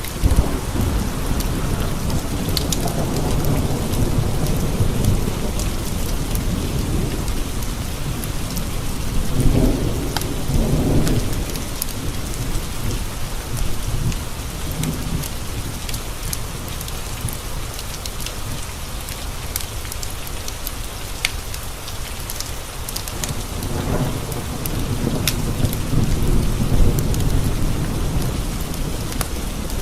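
Steady rain with thunder rolling in low rumbles, in the first few seconds, again around ten seconds in, and through the last few seconds. Scattered sharp ticks sound over the rain.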